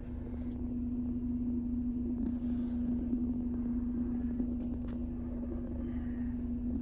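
2014 Mercedes-Benz C250's engine idling steadily on a cold day, soon after a cold start, with an even, unchanging hum. A faint click comes about five seconds in.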